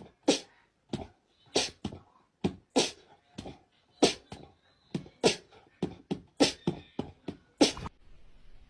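A pet animal making a rapid series of short, sharp sounds, about two to three a second, that stop near the end.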